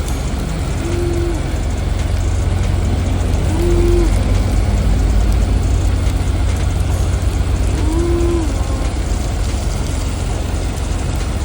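A steady low mechanical rumble like an idling engine, with three short humming tones over it about a second, four seconds and eight seconds in.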